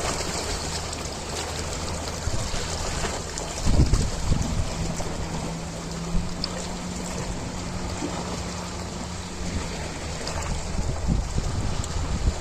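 Ocean water washing and splashing, with a steady low hum underneath and a louder low surge about four seconds in.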